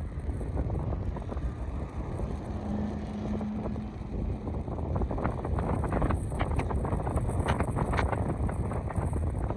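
Wind buffeting the microphone as a steady low rush, with crackling gusts in the second half and a brief low hum about three seconds in.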